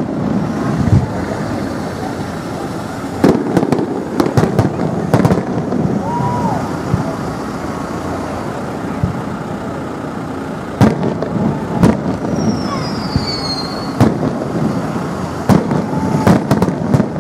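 Aerial fireworks shells bursting: sharp bangs in irregular clusters, several in quick succession at times, over steady background noise. A short high whistle falls in pitch about twelve seconds in.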